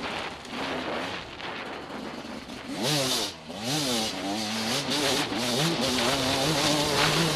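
TM Racing enduro motorcycle engine under the rider's throttle, revs sweeping sharply up and down twice about three seconds in, then pulling steadily at higher revs. Bursts of rushing noise come and go over it, loudest about three seconds in and near the end.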